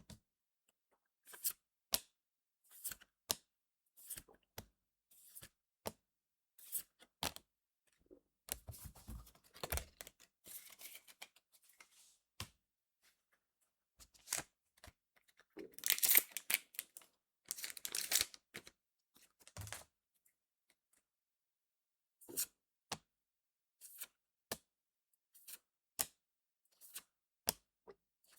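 Trading card booster packs being torn open and the cards handled: a run of short card snaps and clicks, with two louder tearing rips of a pack wrapper about halfway through.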